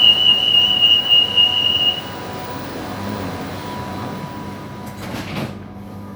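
Subway train at a station: the door warning tone sounds as one steady high beep for about two seconds, then the sliding doors close near the end and the carriage turns quieter.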